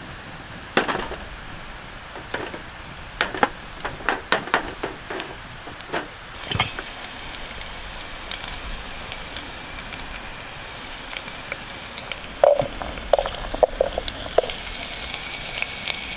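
Food sizzling as it cooks over a campfire: a steady hiss broken by scattered knocks and clinks, one about a second in, a run of them between three and six seconds in, and a cluster of short ringing clinks a little before the end.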